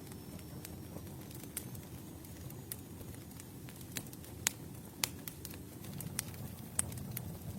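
Campfire burning: a steady low rumble of the flames with irregular sharp crackles and pops from the burning wood, a few louder snaps about halfway through.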